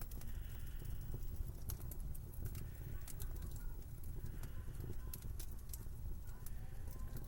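Wood fire crackling with irregular sharp pops, over a steady low rumble of winter wind.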